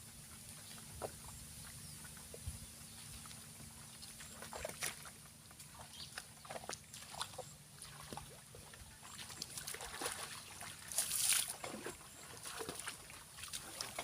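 Irregular splashing and sloshing in shallow water with scattered small clicks and knocks, busiest in the second half and loudest about eleven seconds in.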